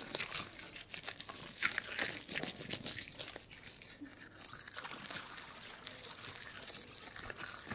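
Shampoo lather being massaged into hair close to the microphone: many small, quick crackles of foam. They are dense in the first half, then thin out after about halfway into a softer, steadier hiss.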